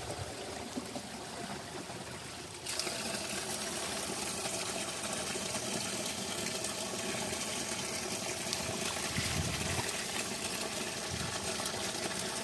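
Steady rush of running spring water, which grows louder and brighter abruptly a few seconds in.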